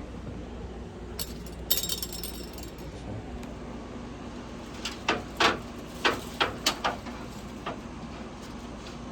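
A brief metallic jangle, then a quick run of about six sharp knocks and one more shortly after: metal equipment being handled.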